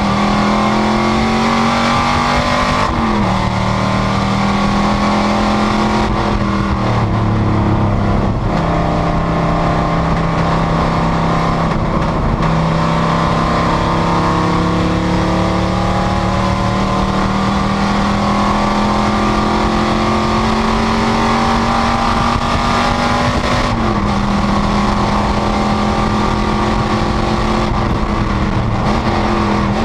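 Panoz GTS race car's V8 engine running hard at racing speed. Its pitch climbs slowly under load and drops suddenly at gear changes about 3 seconds in, around 8 seconds and near the end, with a long steady climb between.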